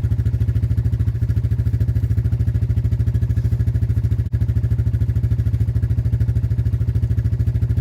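Small engine idling steadily with an even, rapid putter of about ten beats a second.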